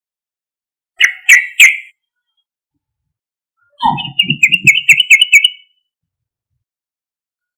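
Yellow-vented bulbul (trucuk) singing: three short loud notes about a second in, then a quick run of about seven bubbling notes with a low undertone beneath them.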